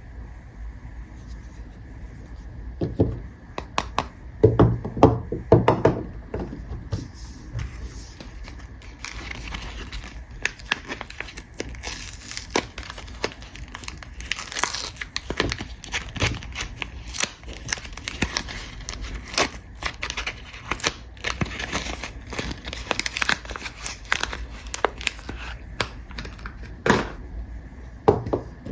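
Soap packaging being unwrapped by hand: paper or plastic wrapper crinkling and tearing in dense rustles and crackles. A cluster of louder knocks comes about four to six seconds in.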